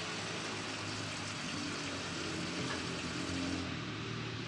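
Gasoline rushing from a gas-pump nozzle into a vehicle's fuel tank: a steady hiss over a low hum. Near the end the hiss loses its top and thins, as the pump flow slows.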